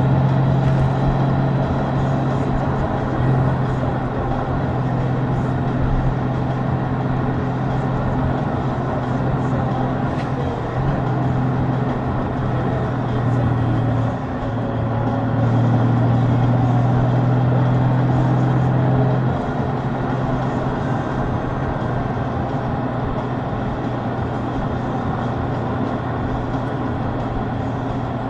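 A 2023 Honda Gold Wing DCT's flat-six engine running at road speed, a steady hum over road and wind noise. Its level eases briefly about halfway through and drops again about two-thirds of the way through.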